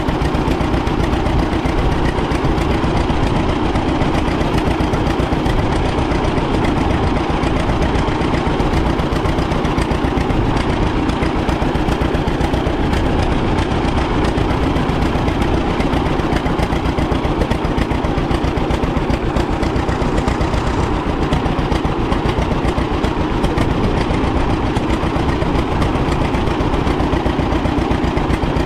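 A 1936 John Deere Model A tractor's two-cylinder engine running steadily at idle, firing in a fast, even run of pulses.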